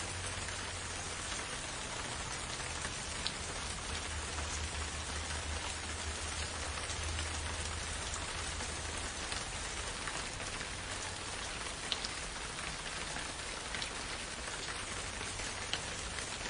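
Steady rain falling, an even hiss with scattered louder drop ticks and a low rumble underneath.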